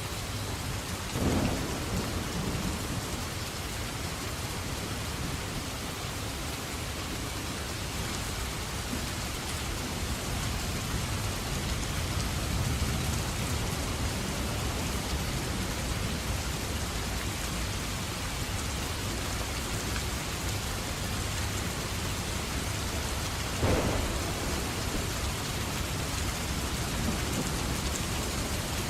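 Steady heavy rain falling, with a low rumble underneath. Two sudden thunder cracks break through, one about a second in and another late on.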